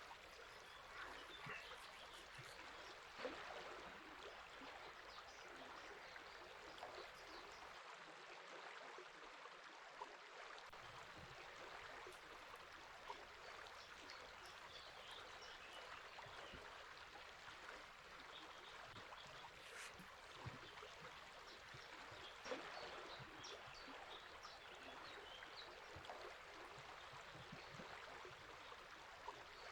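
River water running steadily, with faint high bird chirps scattered over it and a couple of brief louder ticks.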